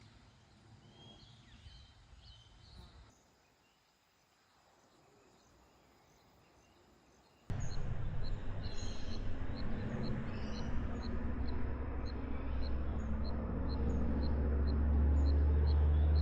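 Outdoor bush ambience: for the first part only a few faint high chirps, then, after a cut, a short high chirp repeating about twice a second over a steady low rumble and hiss.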